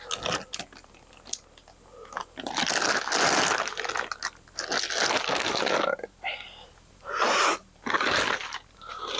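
Crinkling and rustling of the packaging around a new engine timing cover as it is handled, in several separate bursts of a second or so each.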